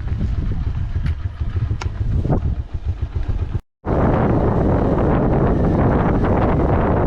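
Motorcycle riding along, its engine rumble mixed with wind buffeting the microphone. About halfway through the sound cuts out for a moment, and after that the wind noise is louder and fills most of the sound.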